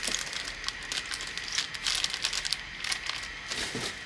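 Irregular crinkling and rustling of packaging as pressure-washer parts are handled during unboxing.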